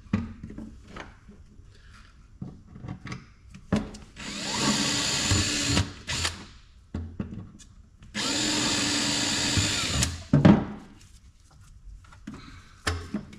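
Power drill running in two bursts of about two seconds each, with clicks and knocks of handling between them and a couple of sharp knocks right after the second burst.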